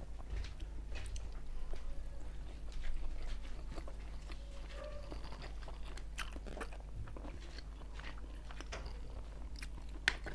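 Close-miked eating sounds: chewing with wet mouth clicks and scattered crunches as chicken and rice are eaten by hand, over a low steady hum.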